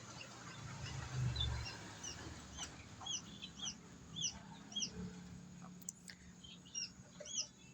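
Newly hatched chicks peeping: short, high, arched chirps repeating about twice a second. A low hum sounds underneath for about a second near the start.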